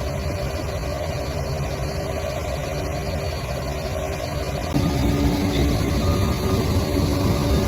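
Bulldozer's diesel engine running steadily. About two-thirds of the way through it abruptly gets louder, with a new mid-pitched tone.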